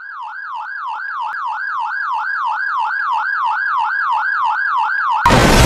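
Police car siren wailing in a fast rise-and-fall yelp, about three cycles a second, growing steadily louder as it closes in. Just before the end it is cut off by a sudden loud blast of noise.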